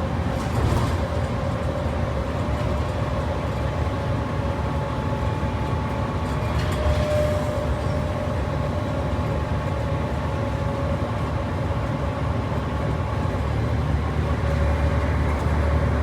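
Ex-State Transport Authority bus 3532 under way, heard from inside: a steady low engine and road rumble with a steady high whine over it, growing a little louder near the end.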